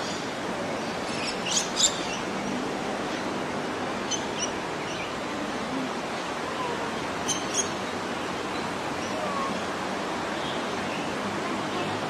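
Birds giving short, sharp, high calls, mostly in pairs, about every three seconds, over a steady rushing background noise.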